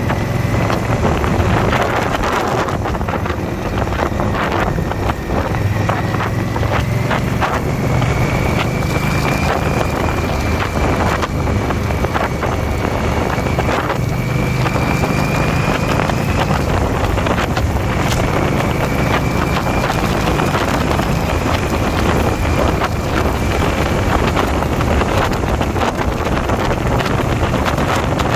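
Motorcycle V-twin engine running steadily at cruising speed, under heavy wind noise buffeting the camera microphone. A faint steady whine sits above the engine hum.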